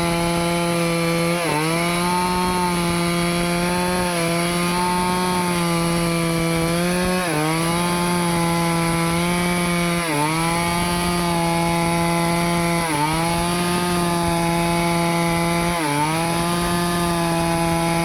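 Stihl two-stroke chainsaw running at high speed while cutting teak wood. Its note dips briefly about every three seconds as the chain bogs under load, then picks back up.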